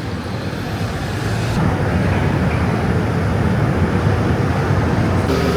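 Steady low rumble of vehicle traffic, growing a little louder about a second in.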